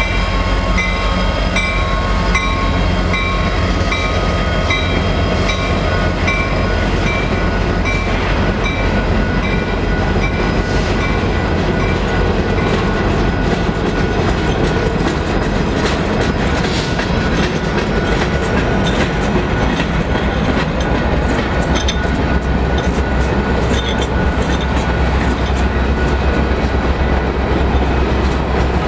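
Diesel freight train passing at a level crossing: steady rumble and clatter of wheels over the rails as a long string of freight cars goes by. For the first eight seconds or so the crossing bell rings in regular strokes, about two a second, then fades under the train.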